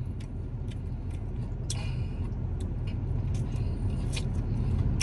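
Steady low rumble with scattered small clicks and smacks of chewing, slowly growing a little louder.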